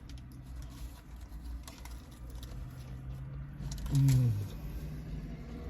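Soft wet chewing and small mouth clicks from eating a taco, over a steady low hum. About four seconds in comes a short, louder "mm" that falls in pitch.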